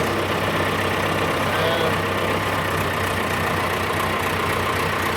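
John Deere 401-C tractor's diesel engine running steadily while it warms up after starting.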